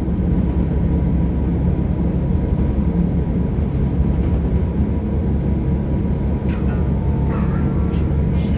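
Steady low rumble of a train running. About six and a half seconds in, a few short, sharp high-pitched sounds cut in over it.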